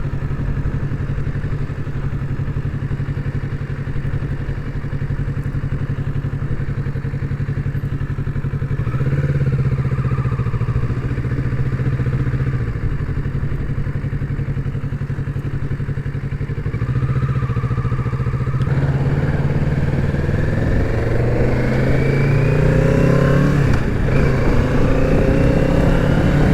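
Kawasaki Z650's parallel-twin engine running as the motorcycle is ridden at low speed. The engine note rises briefly a third of the way in and again just past the middle, then climbs in several steps as the bike accelerates near the end.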